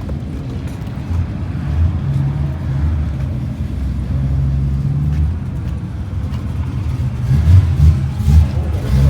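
Drag-race car engine running with a low, uneven rumble that surges louder over the last couple of seconds.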